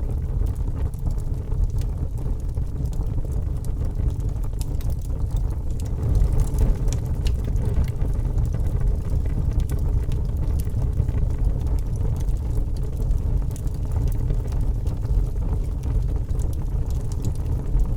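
Log fire burning in a fireplace: a steady low rumble of flame with scattered small crackles and pops.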